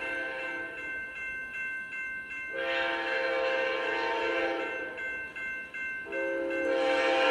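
Amtrak P42DC locomotive's air horn sounding a multi-note chord: fainter at first, then two long, louder blasts starting about two and a half seconds in and again about six seconds in, with a short break between them.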